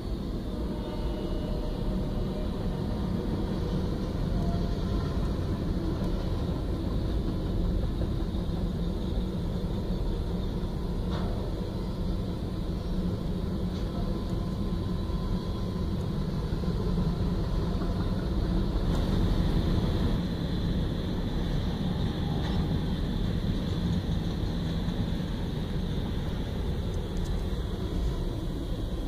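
Freight train of covered hopper cars rolling steadily past, a continuous low rumble heard from inside a car cabin.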